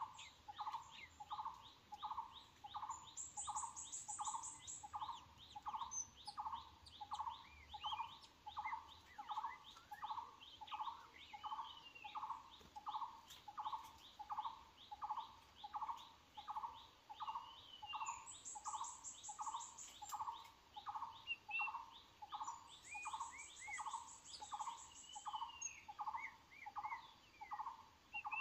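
Forest birds calling: one bird repeats a single short low note steadily, about three times every two seconds, while others give brief whistled notes. A high insect-like buzzing comes and goes in several bursts.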